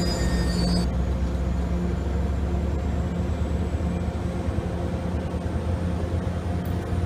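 MBTA commuter rail bilevel coaches rolling past, a steady low rumble of wheels on rail. A high-pitched wheel squeal cuts off about a second in.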